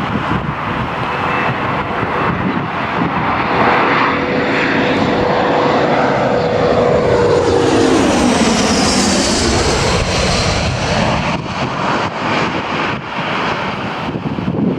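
Aircraft engines passing close by: a steady engine tone that drops in pitch about eight seconds in as the aircraft goes past, with a high whine at its closest.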